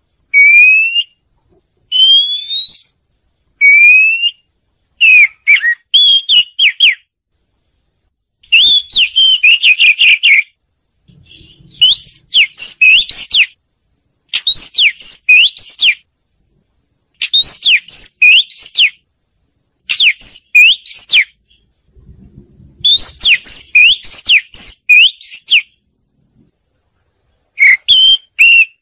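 Oriental magpie-robin singing: repeated phrases of clear, rising and falling whistles mixed with quick chattering notes. Each phrase lasts a second or two, with short pauses between.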